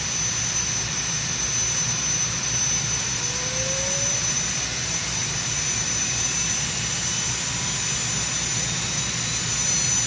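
High-horsepower pulling-vehicle engine running hard and steady at high power, a dense, even roar with a steady high-pitched whine over it.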